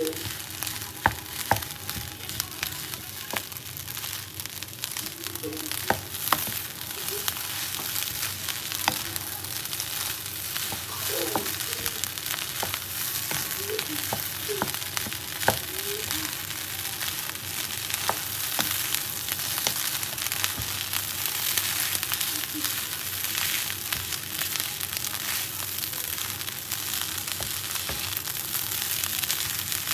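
Fried rice sizzling in a hot metal pan while a wooden spatula stirs and scrapes it, with scattered clicks and knocks of the spatula against the pan over a steady hiss.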